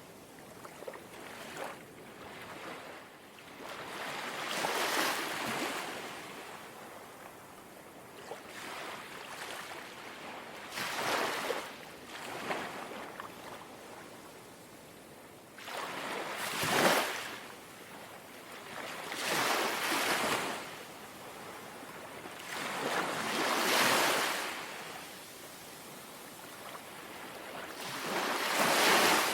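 Calm sea waves lapping in gently, six small washes that each swell up and fall away, a few seconds apart.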